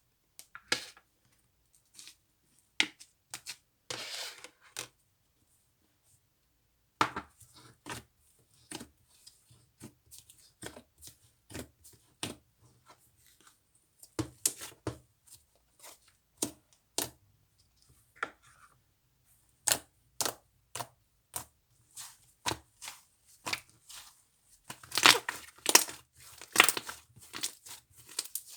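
Slime being squeezed and stretched by hand, giving irregular crisp crackles, pops and tearing sounds, with a denser, louder run of crackling near the end.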